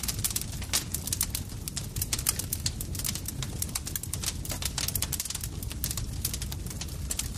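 Campfire crackling: a dense, irregular run of sharp pops and snaps from burning wood over a low, steady rumble of the flames.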